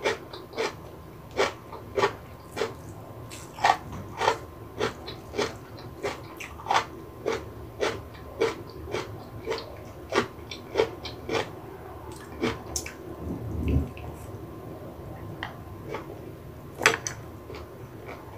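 Close-miked chewing of crunchy food, a steady run of crisp crunches about one and a half to two a second, with a brief low thump about two thirds of the way in.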